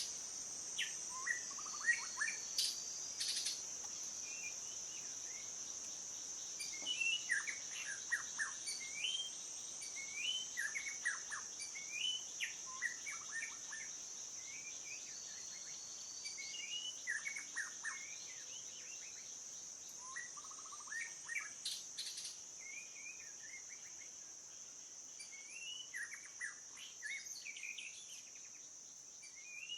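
Songbirds chirping in many short, quick calls, over a continuous high-pitched drone of insects.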